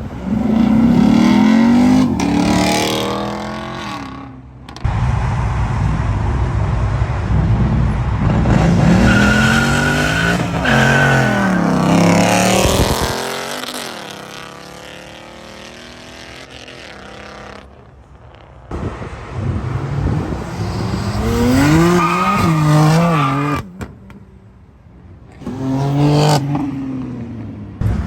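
Cars accelerating hard one after another, engines revving with the pitch climbing and dropping through gear changes. There are four loud passes with a quieter stretch of low noise in the middle.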